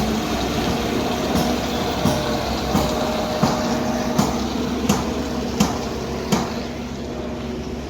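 A machine engine runs steadily while something knocks at an even pace, about every 0.7 seconds, eight times; the knocks stop a little after six seconds in.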